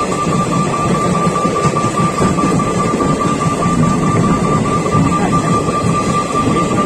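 Train passing over a level crossing: a loud, steady rumble of the train running by, with one constant high tone throughout.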